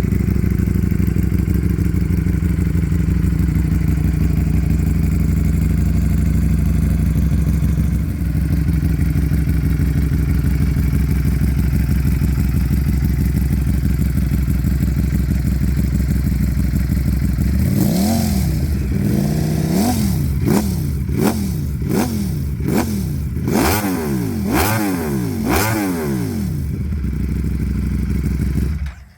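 Ducati Streetfighter V4S's V4 engine through a Termignoni exhaust, idling steadily. After about 17 seconds it is blipped through a quick series of throttle revs, about one a second, each rising and dropping back. The sound cuts off just before the end.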